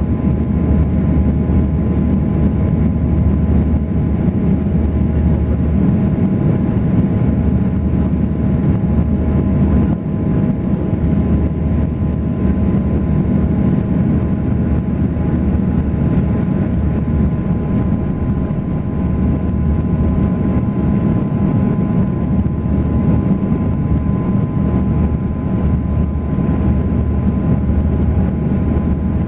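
Steady cabin drone of an Airbus A340 in flight: engine and airflow rumble with a few steady whining tones from the engines over it.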